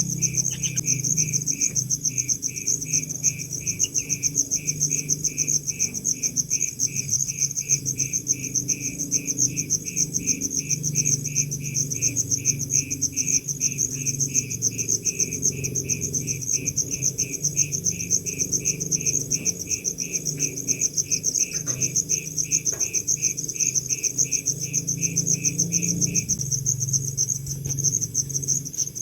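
Insects chirping steadily: a continuous high, rapid trill, with a second, lower chirp repeating about twice a second that stops a few seconds before the end, over a low hum.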